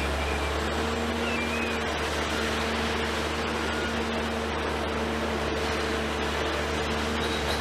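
Forestry forwarder's diesel engine running steadily, with a constant whine over its rumble.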